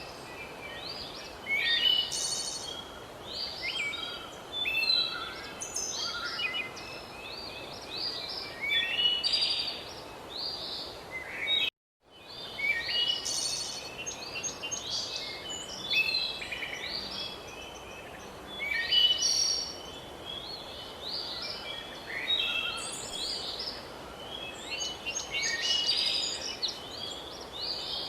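A chorus of wild songbirds chirping and trilling over a steady outdoor hiss. The sound cuts out abruptly for a moment about twelve seconds in, then the birdsong resumes.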